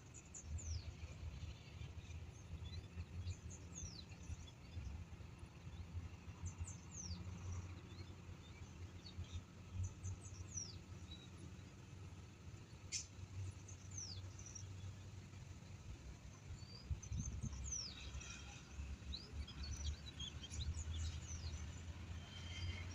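Birds chirping: short, high calls that sweep downward, scattered throughout and busier in the last few seconds, over a steady low rumble.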